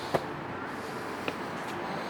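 Two sharp clicks about a second apart, the first the louder, over a steady background hiss.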